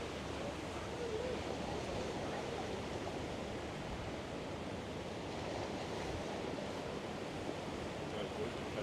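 Steady outdoor ambience: an even rush of noise with no distinct events.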